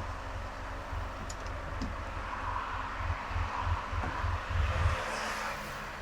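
Road and engine noise of a car driving on a highway: an uneven low rumble under a steady tyre hiss, with a few faint ticks in the first two seconds. A brighter hiss swells and fades about five seconds in.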